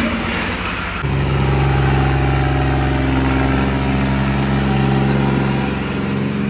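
A vehicle engine running steadily at a constant speed, a low even hum. About a second in, the sound jumps to a louder, steadier engine note.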